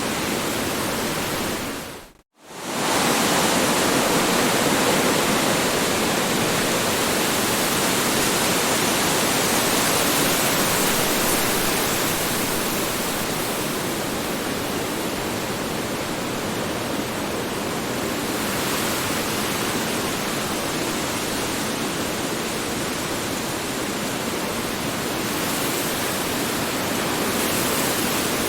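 Strong wind blowing in a steady rush, with slow swells and easings. About two seconds in it cuts out to near silence for a moment, then comes back slightly louder.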